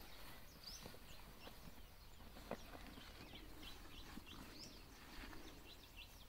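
Near silence with faint, repeated short high chirps of small birds, and a soft click about two and a half seconds in.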